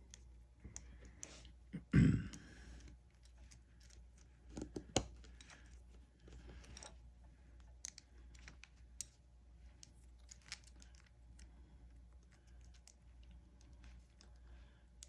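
Small plastic clicks and taps from the parts of a vintage G.I. Joe action figure being handled and fitted together, with a louder thump about two seconds in and a sharp click about five seconds in.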